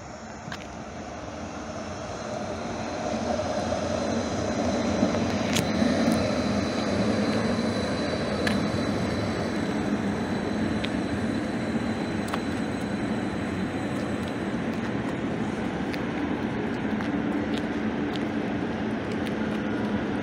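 Light rail train approaching and running past close by: the rolling rumble of its wheels on the rails builds over the first few seconds, then holds steady as the cars go by. A faint high whine sounds for a few seconds near the start, and there are a few sharp clicks.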